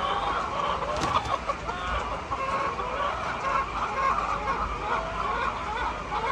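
A flock of hens clucking, many short calls overlapping into a continuous chatter.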